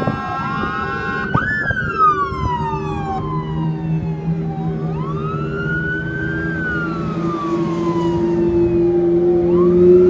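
Emergency vehicle siren wailing in slow rising and falling sweeps, one every few seconds. A steady low drone underneath grows louder toward the end.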